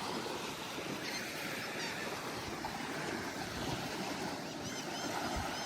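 Steady wash of surf along the beach, mixed with wind. Small high bird chirps come in a short run about a second in and again near the end.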